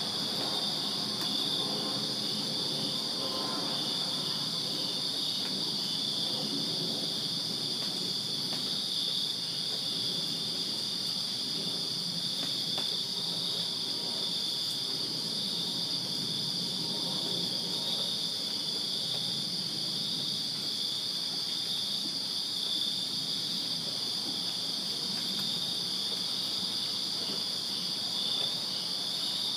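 A chorus of crickets at night: a steady high trill layered with an evenly pulsing chirp, unbroken throughout.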